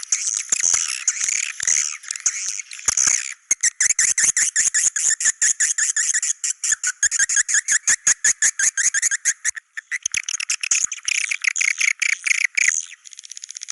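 Swiftlets twittering and chirping in a dense chorus, which turns after about three seconds into fast runs of sharp clicks and chattering trills. The calls are the cave-swiftlet ('Goa China') call type.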